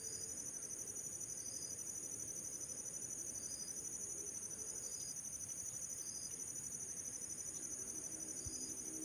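Insects trilling steadily: a continuous high, rapidly pulsing song, with a short chirp repeating about once a second.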